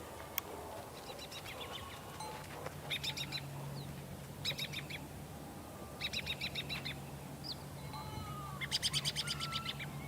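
A small bird repeating short, rapid trilled chirping phrases about every second and a half, over a low steady hum.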